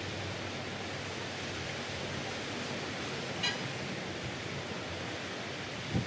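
Steady wash of sea waves breaking on a sandy beach, with a brief high chirp about halfway through.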